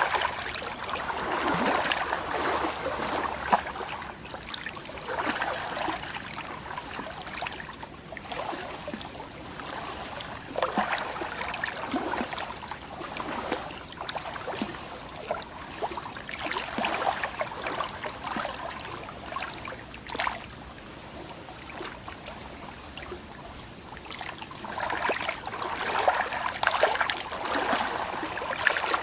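Moving water splashing and gurgling in uneven surges, louder near the start and again near the end.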